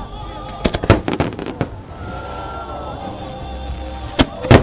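Fireworks bursting overhead: a quick cluster of sharp bangs about a second in, then two loud bangs near the end, with music playing underneath.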